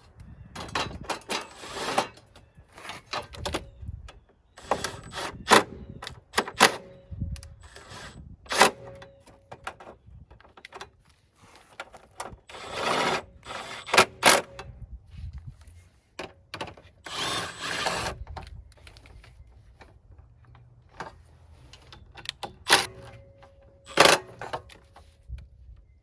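Tools at work on a car: scattered sharp metallic clicks and knocks, with a few noisy stretches about a second long, near the start and twice in the middle.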